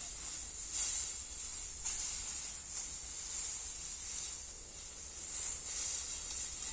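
Steady high-pitched insect chorus, a shrill hiss that swells and fades irregularly.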